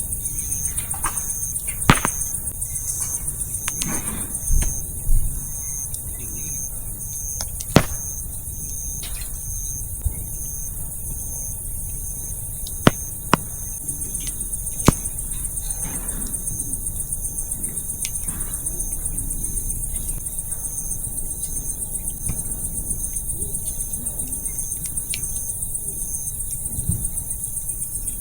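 Firewood crackling in a campfire, with a few sharp pops scattered through, over a steady chorus of crickets and other insects chirping.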